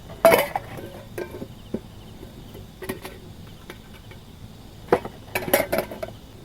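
Metal camp cookware and utensils clinking and knocking together in a few separate clatters, the loudest about a quarter second in and a bunch around five to six seconds in.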